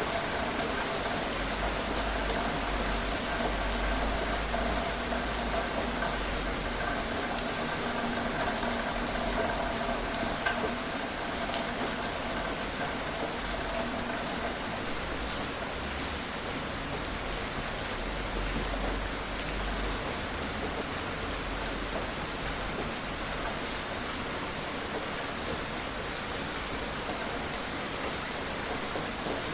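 Gentle, steady rain falling, with scattered individual raindrops ticking on a surface.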